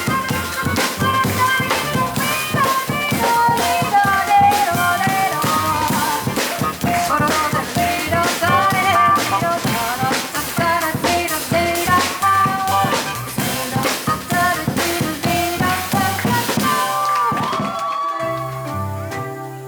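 Live jazz trio playing an instrumental passage: piano over double bass with a drum kit keeping time. Near the end the drums drop out, leaving the piano and bass.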